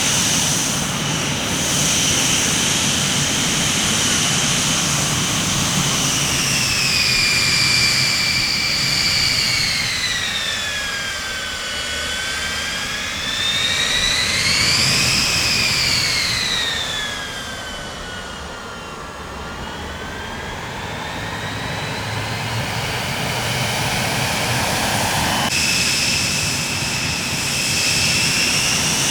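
Jet airliner engines whining over a steady rush of engine noise; the whine's pitch slides down, rises briefly, then falls again, and near the end it cuts suddenly back to a high, steady whine.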